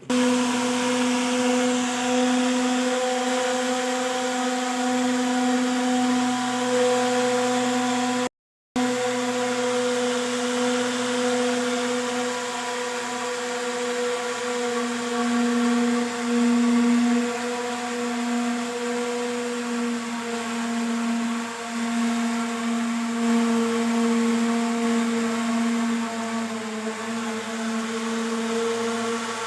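Small motor of a homemade mini speedboat running with a steady whine, its pitch wavering slightly, broken by a brief silent gap about eight seconds in.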